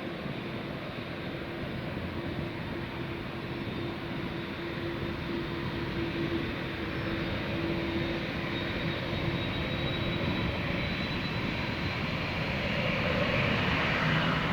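Jet airliner engines running, a steady roar that slowly grows louder, with a faint high whine above it.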